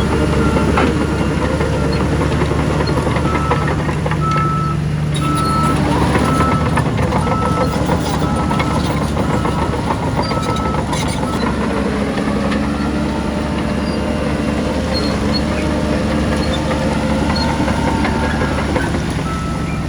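Heavy diesel earthmoving machinery running steadily under load. A reversing alarm beeps about once a second for several seconds from about three seconds in, and starts again near the end.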